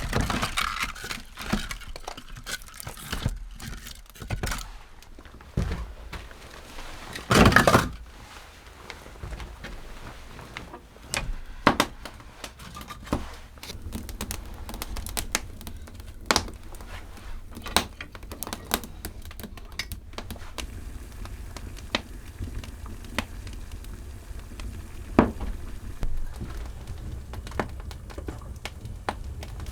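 Crinkling and rustling with scattered knocks and sharp clicks, with one louder rustle about a third of the way in.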